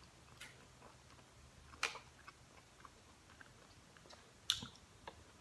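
Faint mouth sounds of eating: a few scattered wet clicks and smacks, with two louder ones about two seconds in and near the end.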